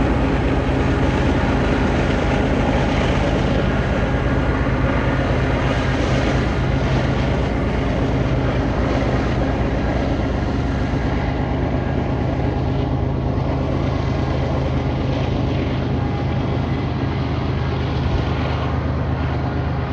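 Diesel freight locomotives running, a steady low engine drone with a fast pulsing beat that eases slightly near the end.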